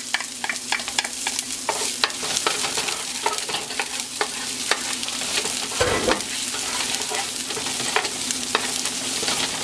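Sliced onions sizzling in sesame oil in an aluminium pot while a wooden spoon stirs and scrapes them: a steady frying hiss broken by frequent light scrapes and taps of the spoon on the pot. A steady low hum runs underneath, and there is a dull bump about six seconds in.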